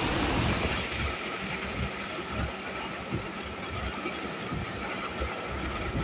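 Heavy rain and traffic noise heard from inside a car: a steady rushing hiss over a low rumble, turning duller about a second in.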